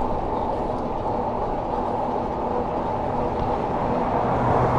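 Wind rushing over the microphone and tyre rumble from a bicycle being ridden, a steady low roar with a faint steady hum under it.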